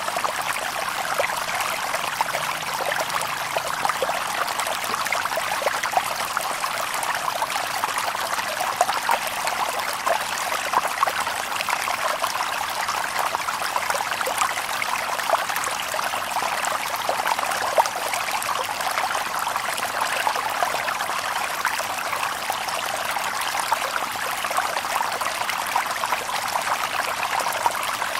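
A shallow river babbling and trickling over stones, a steady splashing rush made of many small quick gurgles, with no birds.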